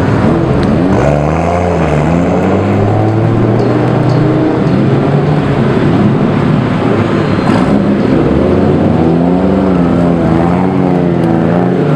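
Several modified drift cars' engines idling in the staging line, with throttle blips making the pitch rise and fall repeatedly as the cars creep forward.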